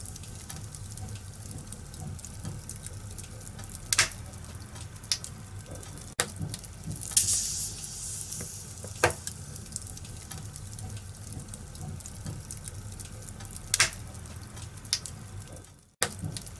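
Wood fire crackling in a fireplace: a steady hiss broken by sharp pops from the burning logs, a few of them loud. The sound briefly cuts out near the end.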